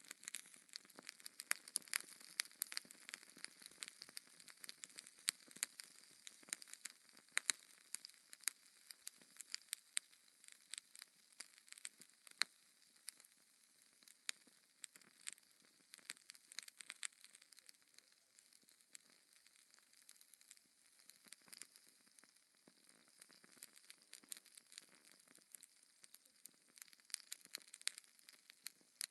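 Wood fire in a fireplace crackling, with many sharp pops over a soft hiss. The pops come thickest in the first dozen seconds and again near the end.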